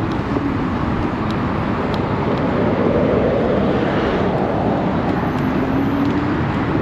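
Steady rush of wind and road noise while riding an electric moped in traffic, swelling a little midway as a vehicle goes by, with a faint hum near the start and again near the end.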